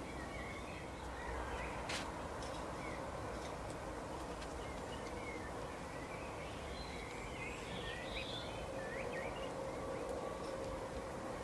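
Garden birds giving short, scattered chirps over a steady outdoor background hiss, with a single sharp click about two seconds in.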